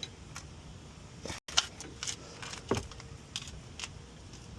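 Metal tools clinking and knocking as a wrench with a long rod slipped over it for leverage is fitted and worked on a brake bolt: a string of sharp clicks, the loudest about a second and a half in.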